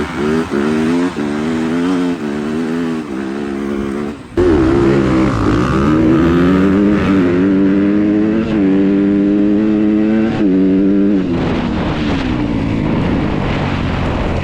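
A four-wheeler's engine revving up and down over and over as it is ridden. About four seconds in it suddenly gets louder, with a low rushing noise under it.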